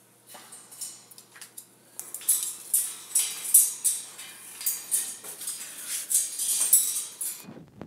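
Metallic rattling and clinking of a wire bird cage, in quick irregular bursts starting about two seconds in and stopping abruptly near the end.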